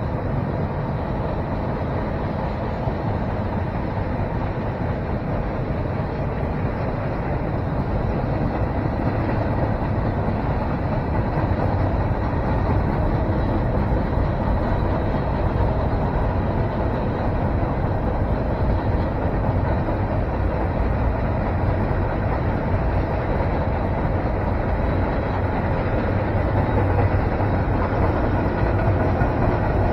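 Freight train of autorack and covered hopper cars rolling past: a steady rolling noise of wheels on rail that grows slightly louder.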